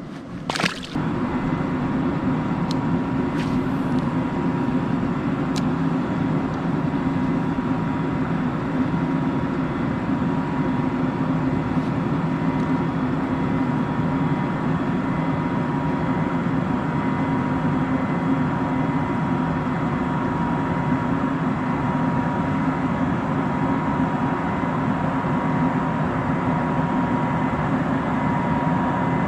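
Steady motor hum with a constant whine, unchanging in pitch and level, after a brief knock just after the start.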